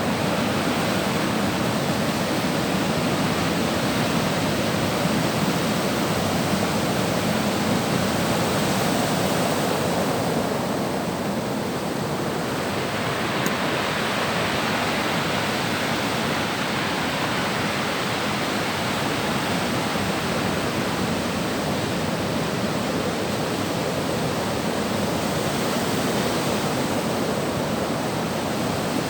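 Sea surf washing onto the shore: a continuous rushing wash that eases slightly about eleven seconds in before building again.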